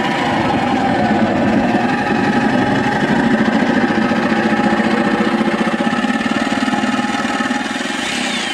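Power saw cutting an access panel into a boat's aluminum top: a steady motor with a fast, even buzz that runs without a break.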